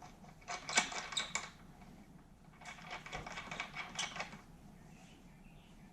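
Small metal hardware clicking and rattling in two short bursts of rapid ticks, as a jet ski fitting is handled and worked into place by hand.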